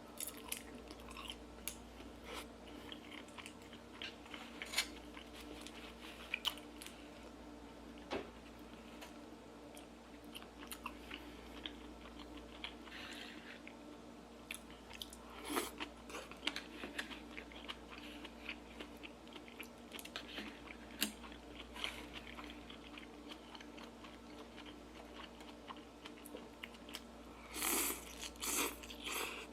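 A person chewing and biting food close to the microphone, with scattered small clicks and wet mouth noises and a few louder bursts of noise near the end.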